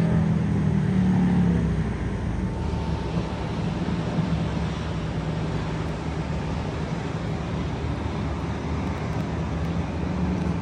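Steady low rumble with a droning hum, cutting off suddenly at the very end.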